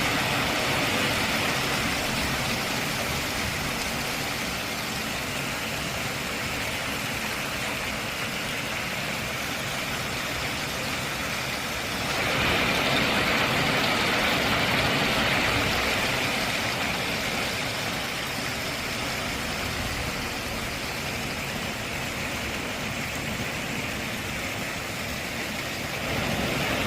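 A heavy hailstorm: a steady, dense roar of falling hail, swelling louder for a few seconds about twelve seconds in.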